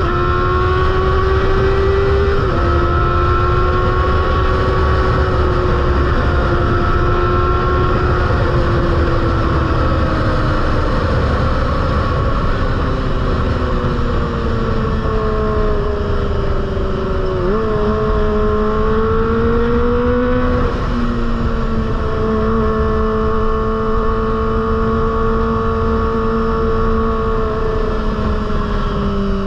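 Kawasaki ZX-25R's 249 cc inline-four engine running through a Proliner aftermarket exhaust at steady speed, its pitch drifting slowly and stepping sharply a couple of times, over a heavy low rumble.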